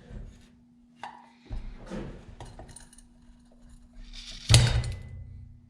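Metal chainsaw engine parts knocking and clinking as they are handled during disassembly. There are several light knocks, then a louder clank about three-quarters of the way through that rings briefly. A faint steady hum runs underneath.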